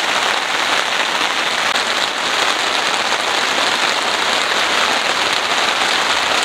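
Heavy rain falling steadily on a small tent, a dense even hiss with no letup.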